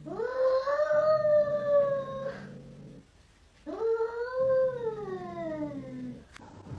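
A pet howls twice, each call long and drawn out: the first rises and then holds its pitch, and the second rises and then slides slowly down.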